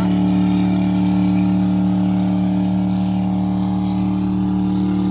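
A motor engine running steadily at one constant speed, a loud even drone with no revving.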